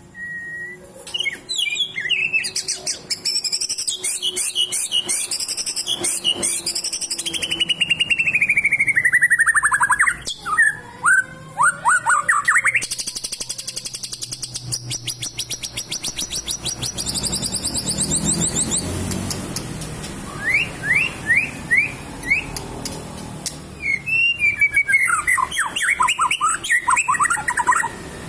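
White-rumped shama (murai batu) singing a long, varied song: whistled phrases, long falling slurs, and stretches of fast repeated notes and trills. This is the bird in full song, pouring out its learned repertoire ('muntah materi').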